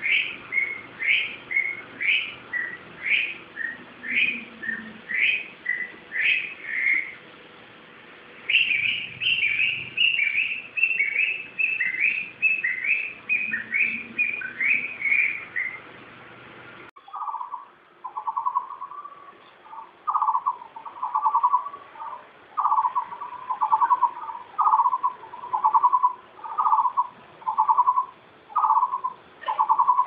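Wild birds calling: one bird repeats short high chirps about two a second, then a quicker run of falling high notes follows. A bit past halfway the sound cuts abruptly to a different bird giving a steady series of lower notes, a little more than one a second.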